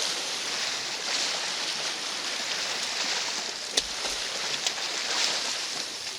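Choppy, storm-swollen lake water washing steadily against and over a concrete revetment, with wind on the microphone. A sharp click sounds once a little past the middle, with a fainter one just after.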